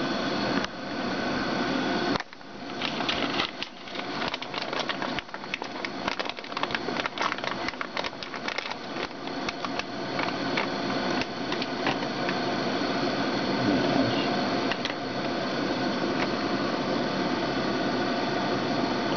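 Steady rushing of a kettle at a rolling boil, with rapid clicks and rattles of handling through the first half.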